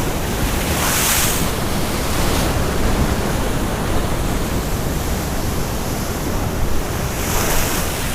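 Heavy storm surf breaking and washing over a rock jetty, a continuous rush of water with wind rumbling on the microphone. Two bigger waves wash through, one about a second in and one near the end.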